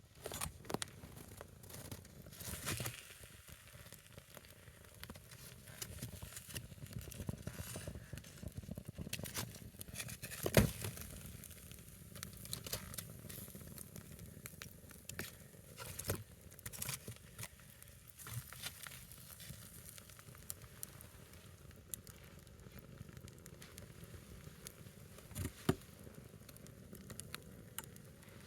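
A single firewood log burning in an open fire, crackling with scattered sharp pops, two of them louder: one about ten seconds in and one near the end.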